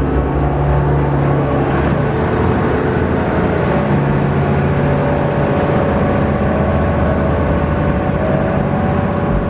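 Diesel railcar engine running steadily under power, heard from inside the carriage, with a steady hum of several pitches over the running noise.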